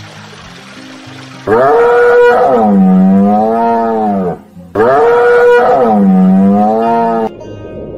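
Cow mooing: two long, loud moos of about three seconds each, one right after the other. The pitch falls, sinks low and then rises again.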